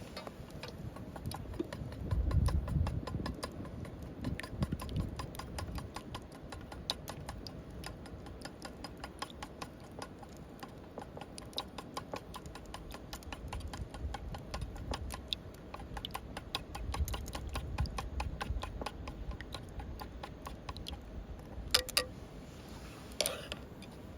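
Wood fire crackling: a steady run of small sharp pops and ticks, with wind rumbling on the microphone and two louder knocks near the end.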